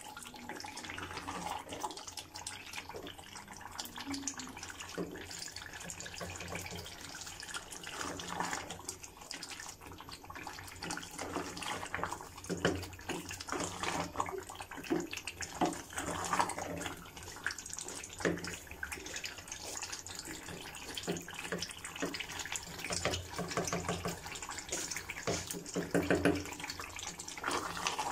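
Mutton curry sizzling and bubbling in hot oil in an aluminium pot, a steady crackling hiss, with a wooden spatula stirring through it.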